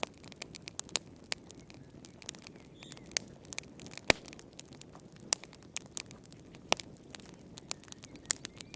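Wood fire crackling in a fireplace: irregular sharp pops and snaps over a soft low rush of the flames, with one louder pop about four seconds in.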